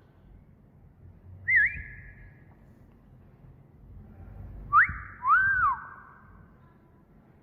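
A wolf whistle used as a training sound for a parrot to copy. About a second and a half in there is a short rising whistle. About five seconds in comes the full wolf whistle: a quick upward sweep, then a second note that rises, holds and falls away.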